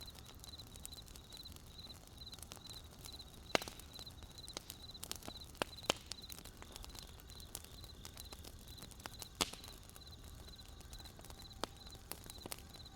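Wood fire crackling with scattered sharp pops, the loudest a few seconds in and again about two-thirds of the way through, over crickets chirping steadily in short, evenly repeated pulses.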